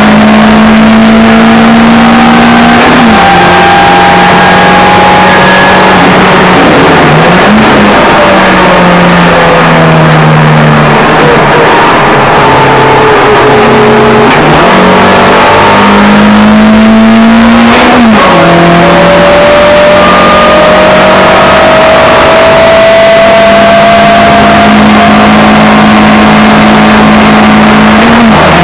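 Ford Escort Mk1 1300GT's four-cylinder engine at racing revs, loud throughout. Its pitch climbs slowly through the gears and drops sharply at each upshift, a few seconds in, at about two-thirds of the way and at the very end. In the middle stretch the pitch falls as the car slows for a corner, then picks up again.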